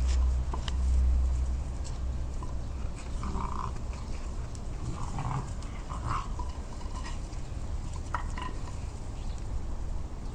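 Two-month-old Central Asian Shepherd (Alabai) puppies giving a few short vocal sounds, about four spread over several seconds. A low rumble runs underneath and is strongest at the start.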